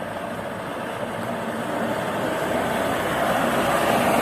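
Truck engine running amid road noise, growing gradually louder.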